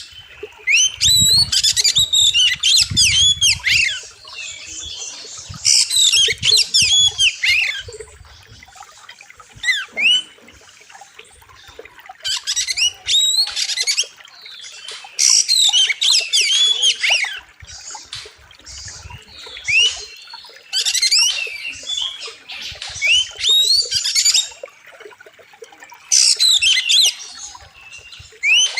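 Oriental magpie-robin (kacer) singing loudly: a second or two of rapid sweeping whistles and harsh notes, repeated every two to three seconds.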